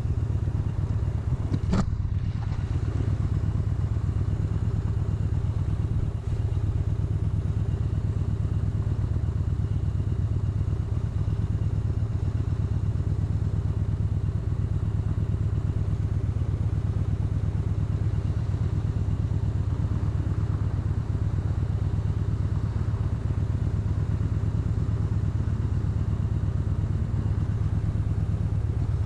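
Motorcycle engine running at a steady pitch while riding, with no revving. A single sharp click about two seconds in.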